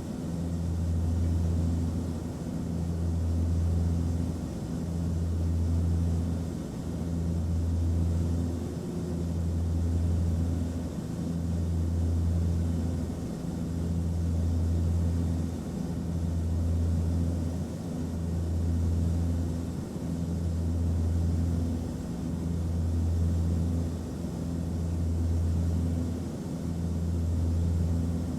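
Airplane cabin noise: a steady low drone with a faint hiss above it. The drone swells and fades in a regular beat, about once every two seconds.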